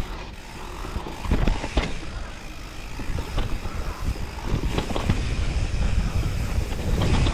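Mountain bike being ridden over rough ground: wind rushes on the microphone, with tyre noise and a stream of short rattling knocks from the bike.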